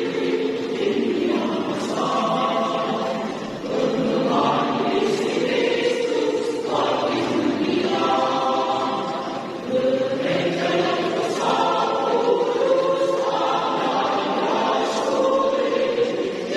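Choir singing in long held notes, with short breaks between phrases about four and ten seconds in.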